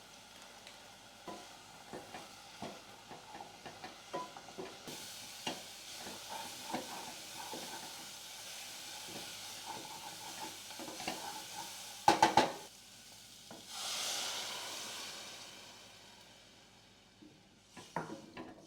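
A utensil stirring food in a cooking pan over a steady sizzle, with many light taps and scrapes. A loud clatter comes about twelve seconds in, then a burst of hissing that fades over a couple of seconds, and a few more knocks near the end.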